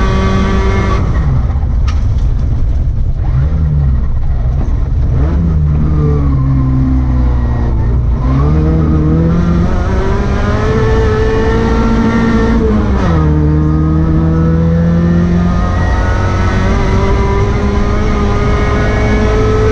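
Rally car engine working hard, its pitch climbing and then dropping sharply several times as it shifts gears and comes on and off the throttle, over steady tyre and road noise.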